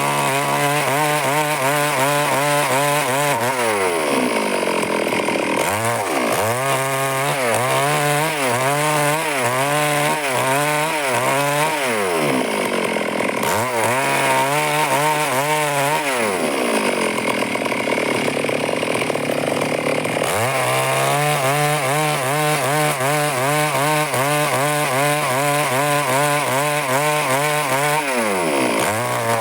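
Stihl chainsaw running hard while cutting through wood. Its revs drop away and climb back up several times, near the start, around the middle and near the end.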